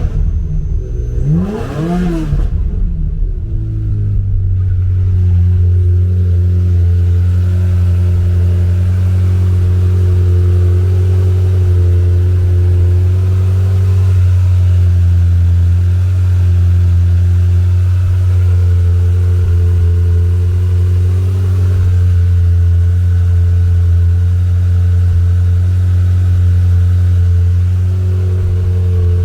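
1996 Ferrari F355 Berlinetta's V8 engine running shortly after a cold start. A brief rev rises and falls in the first few seconds, then it settles to a steady idle.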